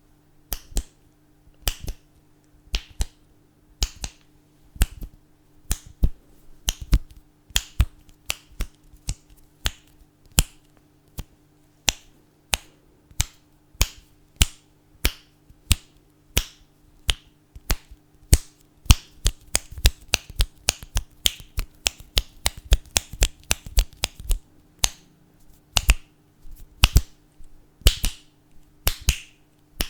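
Fingers snapping over and over in an uneven rhythm, speeding into a quick flurry of snaps about two-thirds of the way through, over a faint steady hum.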